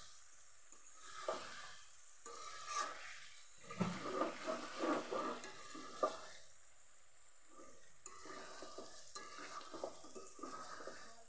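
Metal spatula stirring and scraping chicken pieces around a metal karahi while they sizzle in oil, browned in oil alone with no water added. A busy run of scrapes and clanks against the pan comes about four to six seconds in.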